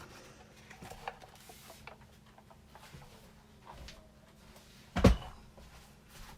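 Light clicks and handling on a work table, then one heavy thump about five seconds in as a Big Shot die-cutting machine is moved and set down.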